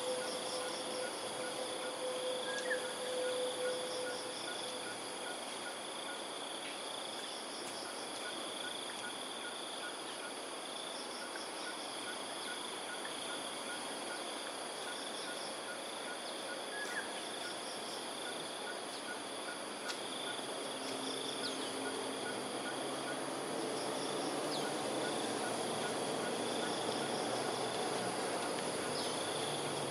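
A steady, high insect chorus with birds calling over it. One bird repeats a short note at an even pace, about two a second, through much of it, with a few other brief chirps. A low rushing sound grows in the last third.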